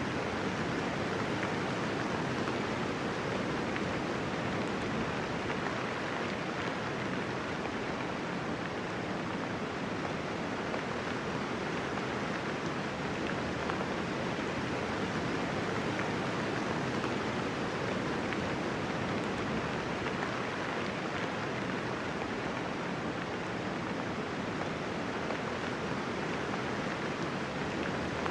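Steady, even rainfall, a dense hiss of raindrops with no thunder and no separate drips standing out.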